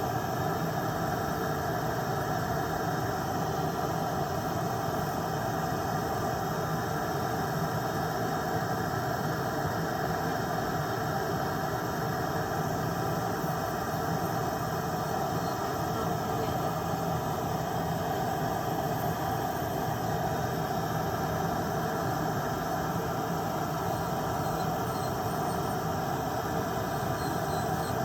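Electric nail drill (e-file) running at a steady speed, a continuous whine with several steady tones, as its bit files off gel nail polish.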